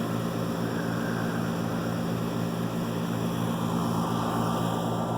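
A 24-year-old heat pump's outdoor unit running: a steady compressor hum with the rush of the condenser fan.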